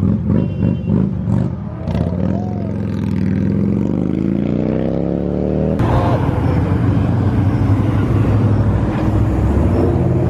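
Car engine blipping the throttle a few times, then accelerating hard with its pitch climbing steadily. About six seconds in, the sound cuts abruptly to another loud engine running at steady revs.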